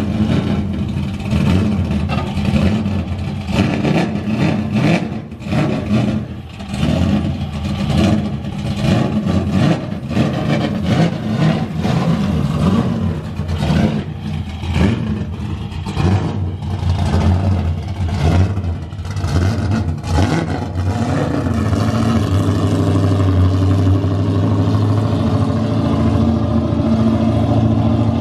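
408 cubic-inch LS stroker V8 in a Nissan 240SX (S14) running at low speed with uneven throttle, its level rising and falling every second or so as the car is driven down off a trailer. About 21 seconds in it settles into a steady drone.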